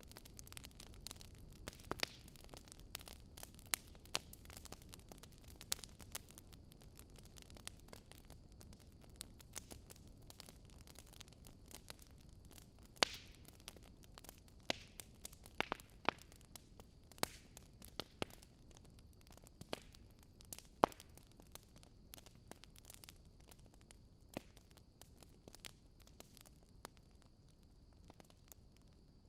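Fire crackling: irregular sharp snaps and pops over a soft steady hiss. A faint high steady whine comes in about halfway through.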